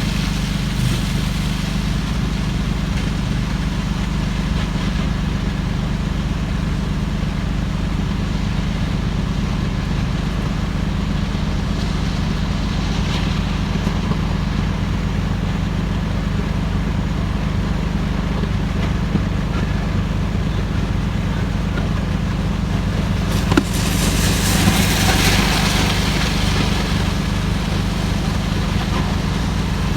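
A vehicle engine idling steadily with a low rumble. A sharp knock comes about 23 seconds in, followed by several seconds of louder rushing hiss.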